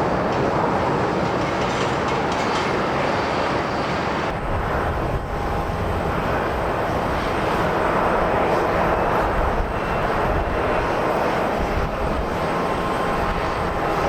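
Jet airliner engines running steadily on approach to land, with wind rumbling on the microphone.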